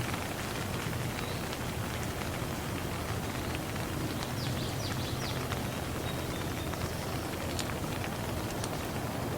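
Steady rainfall with scattered drop taps. A short run of quick, high, falling chirps about halfway through.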